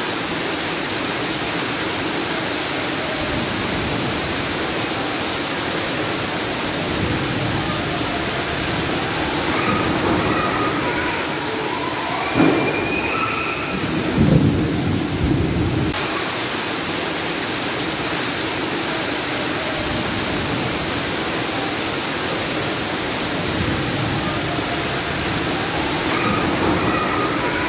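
Heavy rainstorm: a steady rush of torrential rain on the mall's skylight roof and water pouring down through the ceiling into the atrium. A few louder low rumbles come about halfway through.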